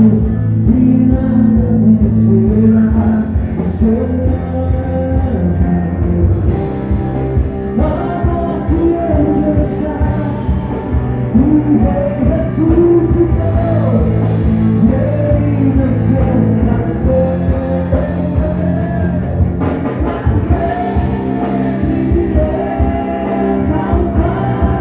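A band playing rock-style gospel music, with singing over guitar, bass and drums.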